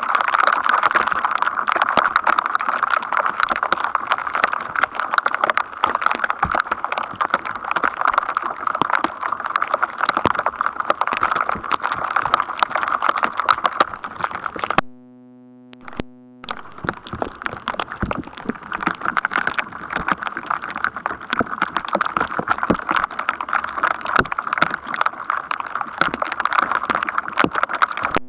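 Thunderstorm electrostatic noise: a dense, continuous crackle of sharp clicks. About halfway through it stops for a second or two, leaving a low steady tone, then the crackling resumes.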